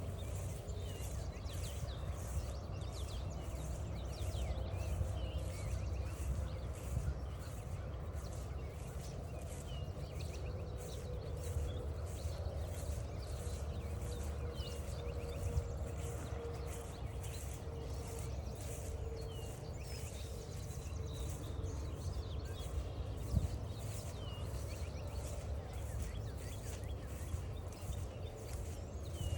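Footsteps walking steadily along a trail, about two steps a second, over a low steady rumble. Birds give short chirps now and then.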